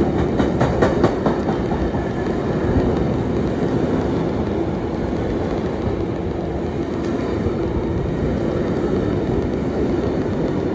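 Freight train of tank-container wagons passing close by at speed: a steady rumble of wheels on rail, with a quick run of clicks in the first second or so.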